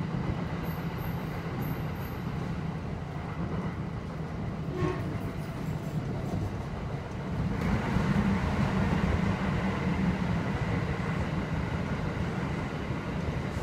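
Kintetsu 1253 series electric train running at speed, heard from inside the passenger car: a steady rumble of wheels on rail with a single clack about five seconds in. About halfway through the rumble gets louder and fuller as the train enters a tunnel.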